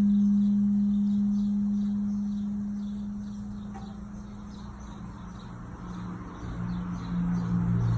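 A 2015 A. O. Smith water heater humming with a steady single-tone hum while its burner is firing, fading away over the first few seconds. This hum and vibration is the abnormal noise that sets in after the burner turns on. A low uneven rumble rises near the end, with faint chirping in the background.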